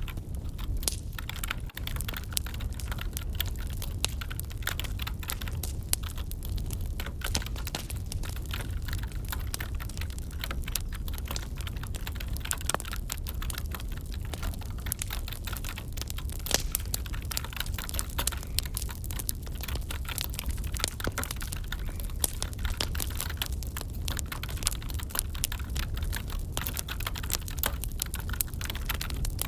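Wood fire crackling with irregular sharp pops over a steady low rumble, mixed with the clicking of a computer keyboard being typed on.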